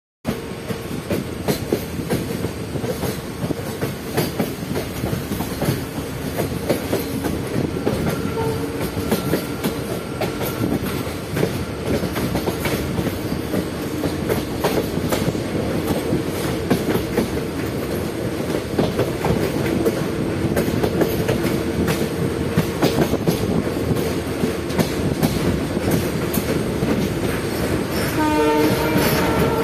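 Train running on the rails, a steady rumble with wheels clicking rapidly over rail joints. A short pitched tone sounds briefly near the end, likely the train's horn.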